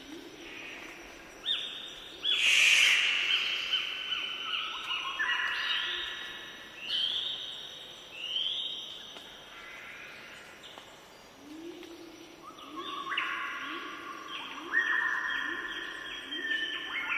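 Several birds singing at once, overlapping clear whistled notes and chirps. In the second half a lower call repeats about once a second beneath them.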